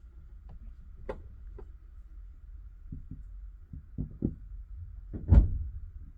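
Passenger train wheels knocking over rail joints in paired beats, about one pair a second, over a steady low rumble of the carriage running slowly.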